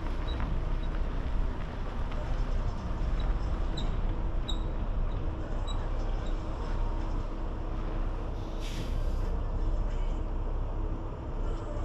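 Steady engine and road rumble inside a semi-truck cab while driving, with a short hiss about nine seconds in.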